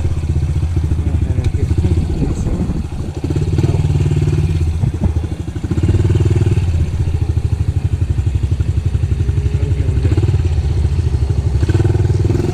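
Small off-road engine running hard close to the microphone, with the throttle eased off briefly twice, about three and five and a half seconds in.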